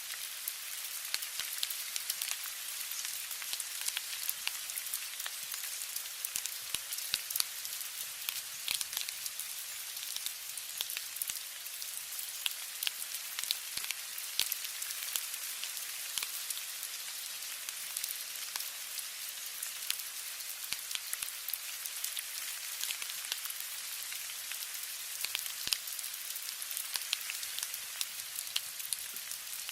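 Steady rain, a dense hiss with many small sharp drop ticks scattered through it.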